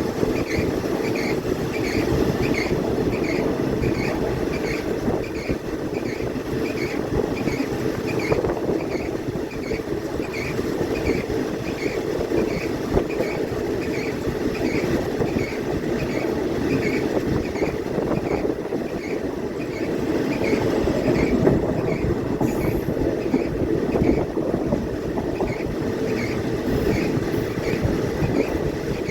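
Passenger train running along the track: a steady rumble of wheels on rail, with a light regular clicking a little more than once a second.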